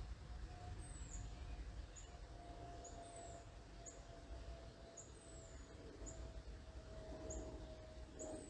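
A small bird calling: thin, very high chirps about once or twice a second, with a few longer notes that slur downward. Under them run a faint steady hum and a low outdoor rumble.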